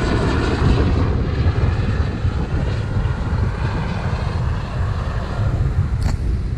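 Strong wind buffeting the microphone, a steady heavy rumble, with a short sharp click about six seconds in.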